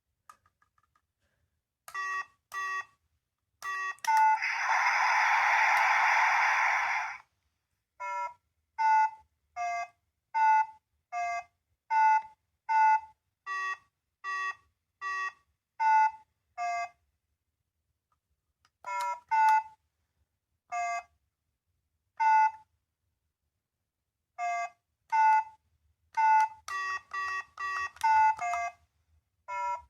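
A small electronic sound toy playing through its tiny speaker: short synthetic beeping notes in a simple tune, alternating between two or three pitches at about one to one and a half notes a second, in runs broken by pauses. Between about four and seven seconds in, a harsh hiss plays for about three seconds.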